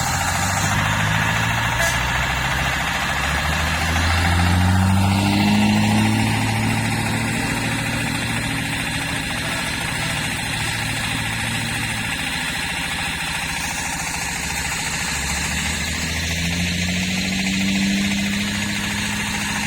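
Diesel truck engine running, its pitch climbing twice as it is revved up, about a quarter of the way in and again near the end, then held.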